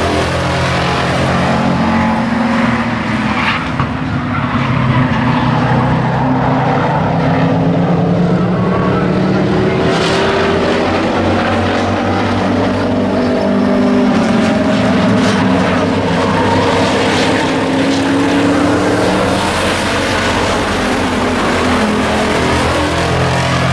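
Several truck stock race trucks' engines running hard on an oval track, their pitch rising and falling as they accelerate and back off through the turns.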